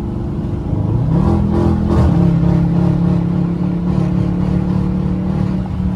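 Dodge Charger R/T's V8 engine under way: about a second in it pulls harder with its pitch rising, then drops suddenly about two seconds in, like a gear change, and runs on steadily.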